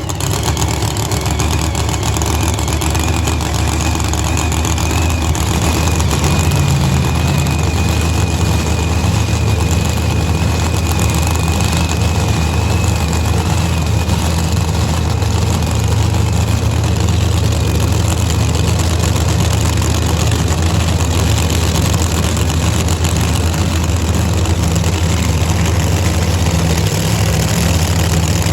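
Supercharged drag-racing funny car engine running loud and steady at idle, with no revving.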